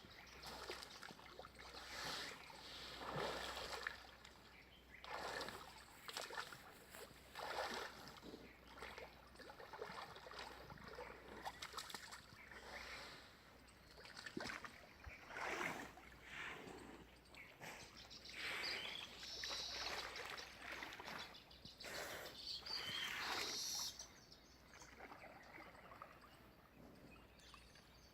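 Water splashing and sloshing in uneven surges every second or two as buffalo move about in a bathing pool.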